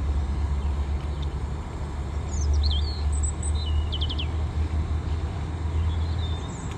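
A small songbird calling: a few high chirps, then a short rapid trill about four seconds in, over a steady low rumble that eases near the end.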